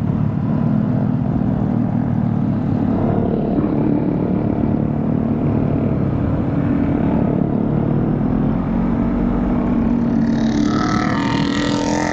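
Motorcycle engine running steadily on the move, with a low rumble of wind on the microphone.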